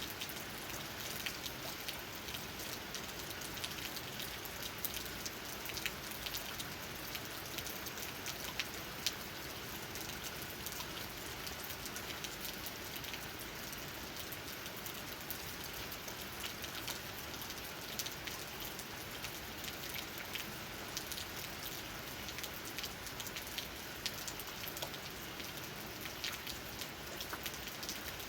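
Steady rain with a dense patter of individual raindrops tapping on leaves, an even hiss scattered with many small sharp ticks.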